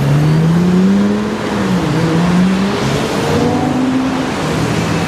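Lexus LFA's V10 engine accelerating: its pitch climbs, drops back about two seconds in, climbs again and drops near three and a half seconds in, as at upshifts, then runs on at a lower steady pitch.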